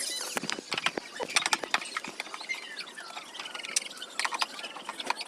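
Irregular clicks and taps of tools and metal parts being handled during washing-machine disassembly, with birds chirping in short falling calls.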